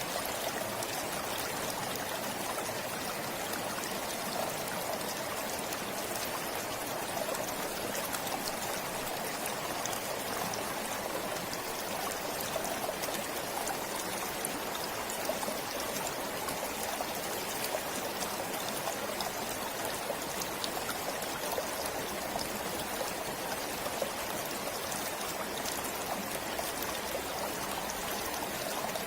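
A stream of water flowing, a steady, unbroken rush and trickle.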